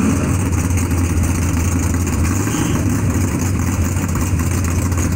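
Drag-race cars' engines idling loudly and steadily, a deep low rumble.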